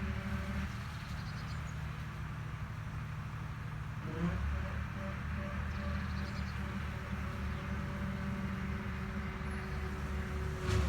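An agricultural machine's engine runs with a steady low drone. A short knock comes near the end, and a faint high trill about six seconds in.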